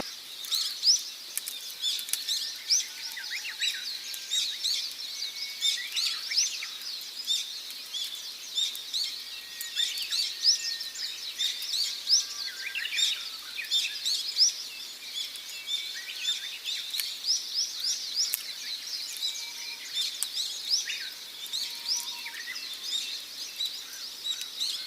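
A chorus of many small birds chirping and calling over one another: a dense, unbroken run of short, high chirps and quick upward-sweeping notes.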